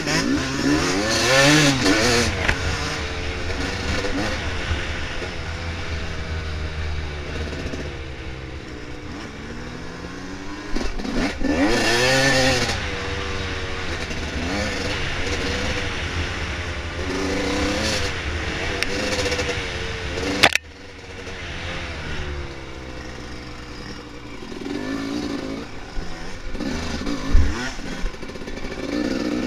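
Dirt bike engine running on a trail, revving up and down with the throttle, with strong surges about two, twelve and eighteen seconds in. A sharp crack about twenty seconds in, after which the engine is briefly quieter.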